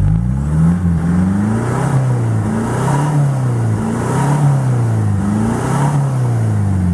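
Kia Sorento's 2.5-litre CRDI four-cylinder turbo-diesel revved repeatedly through an exhaust with no catalytic converter and no middle box, only the rear silencer. The revs rise and fall about five times, then settle back to idle near the end.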